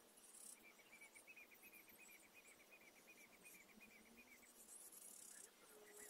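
Faint woodland ambience: a small bird's quick trill of short repeated high notes, about five a second, lasting about four seconds, with a short lower whistled note near the end.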